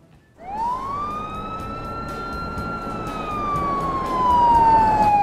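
Police car siren sound effect: one long wail that rises quickly about half a second in, holds, then slowly falls in pitch, getting louder toward the end.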